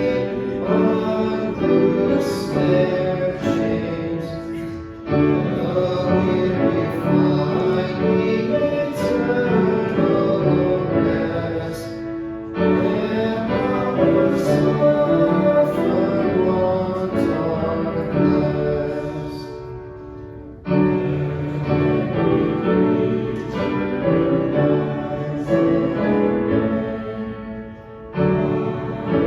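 A hymn sung by voices with piano accompaniment, in phrases of about seven or eight seconds, each ending with a brief dip before the next line begins.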